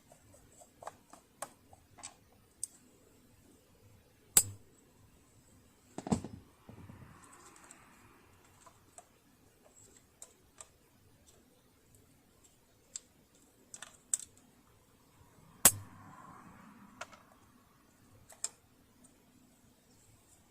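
Scattered light clicks and taps of tools and metal parts being handled while a Riccar Bernina Holidayne 1090 sewing machine is worked on during disassembly and oiling. There are two sharp knocks, one about four seconds in and one about fifteen seconds in.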